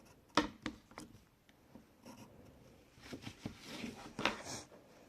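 Pencil drawing and marking lines on paper, scratching in strokes, with a few sharp taps in the first second and a longer stretch of scratching near the end.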